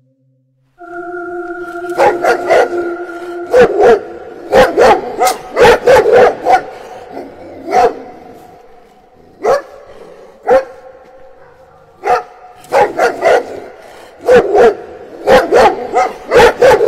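Dog barking over and over, in quick runs of several barks with short pauses and single barks between them. A steady held tone sounds under the first few seconds and fades as the barking sets in.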